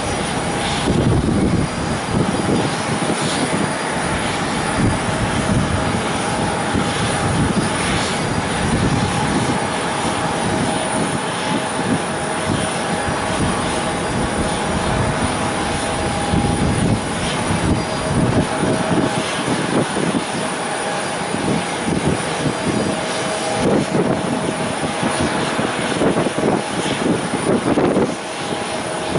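Airplane engines running with a steady whine made of two held tones, under heavy wind buffeting the microphone in irregular gusts.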